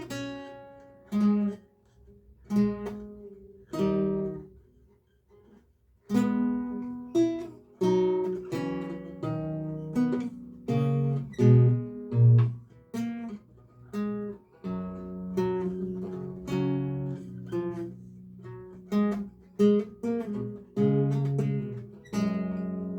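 Solo lute playing a recercar: single plucked notes and chords in a slow, unhurried line. The playing stops for about a second and a half a little after four seconds in, then resumes.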